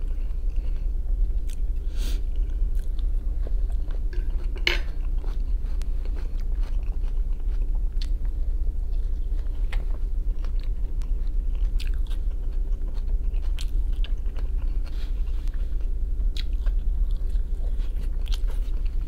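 A person chewing a mouthful of fried capelin and potato close to the microphone, with scattered short sharp clicks of mouth and food sounds over a steady low hum.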